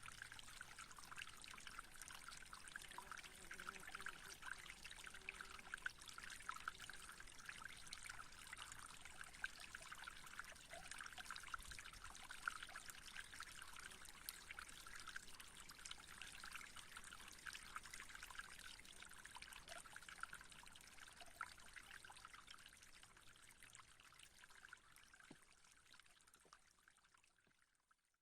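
Faint, steady trickling water, like a small stream, fading out near the end.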